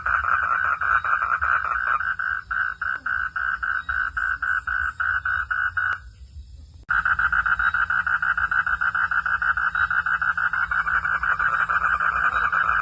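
Frogs calling at night in a continuous pulsed trill, about six pulses a second. The calling cuts out for just under a second just after the midpoint, then starts again at full strength.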